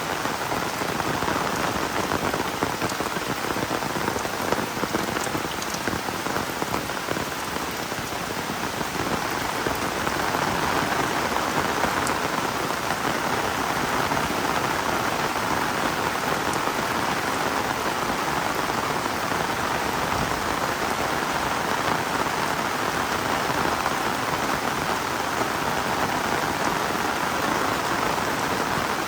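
Heavy rain falling steadily, a dense even hiss of drops that swells slightly about ten seconds in.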